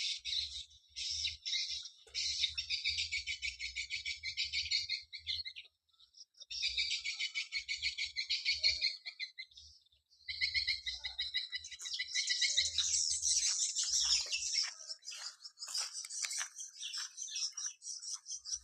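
Small birds chirping in rapid, continuous twittering bursts of several seconds, broken by short pauses about six and ten seconds in.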